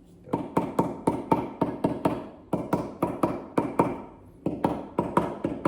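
Small rubber mallet tapping a masonry block in quick, even blows, about four or five a second, bedding it into the thin layer of glue-mortar; a brief pause near the end, then the tapping resumes.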